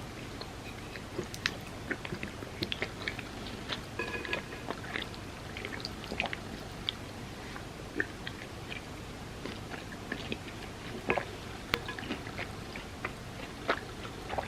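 Close-miked chewing and wet mouth sounds of someone eating chocolate truffles softened in warm almond milk: soft, irregular smacks and clicks.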